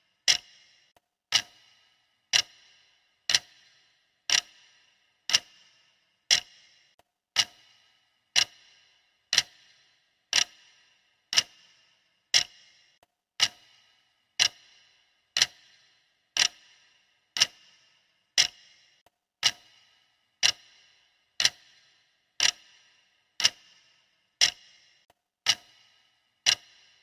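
Clock ticking steadily, about one tick a second, each tick a sharp click with a short ringing tail.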